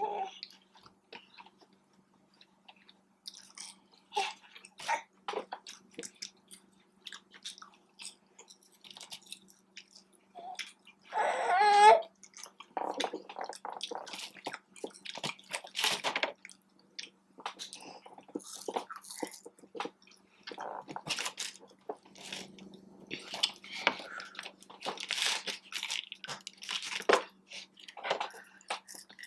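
Close-miked chewing and biting of breaded boneless chicken wings and fries, with scattered crunches and wet mouth clicks. A short voiced sound about eleven seconds in is the loudest moment.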